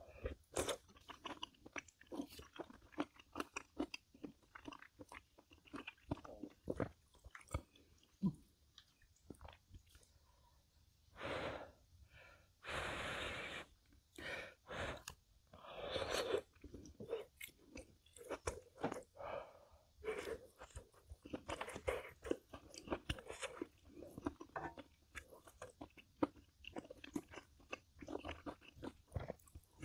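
Close-miked eating: wet chewing and crunching of food, with many short mouth clicks and smacks and a few longer noisy stretches a little before and after the middle.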